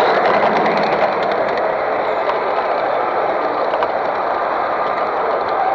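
Steady din of a busy exhibition hall, with faint light clicks scattered through it.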